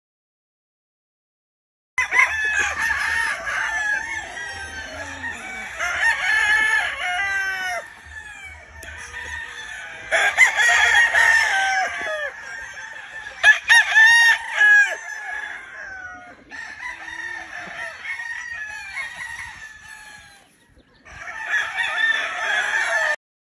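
Many gamefowl roosters crowing over one another, with clucking among them, in several stretches that start and stop abruptly. Silent for the first two seconds and again just before the end.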